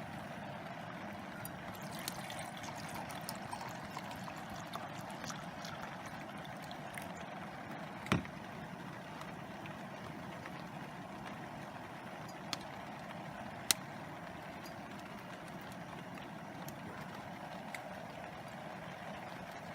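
Steady rushing of water from rain and a river, with a few sharp ticks and taps scattered through, the loudest about eight seconds in.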